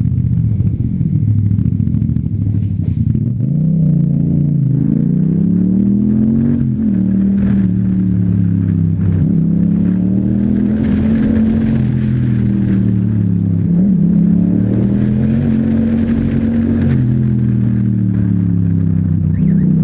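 Yamaha MT-07's 689 cc parallel-twin engine through an Akrapovic exhaust, riding under way. Its pitch rises and falls several times as the bike accelerates, shifts gear and eases off.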